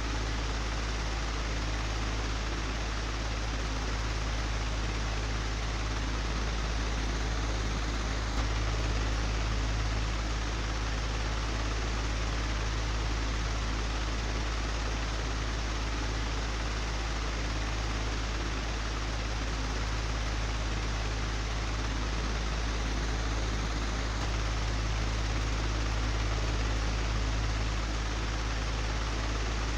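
An old, broken electric fan running steadily: an even whooshing rush of air over a low motor hum, with one light tick about eight seconds in.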